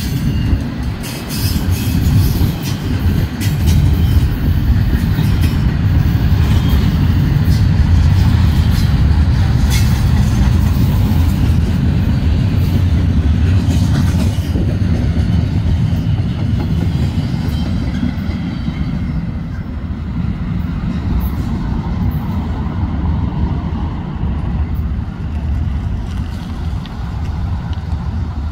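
Norfolk Southern double-stack intermodal freight train rolling past close by: a steady, loud low rumble of steel wheels on rail, with scattered clicks, easing a little in the last third.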